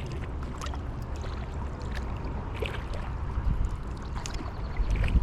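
Kayak paddle dipping and splashing in the water, with drips running off the blade in short irregular splashes. A steady low rumble of wind on the camera microphone runs underneath and grows louder near the end.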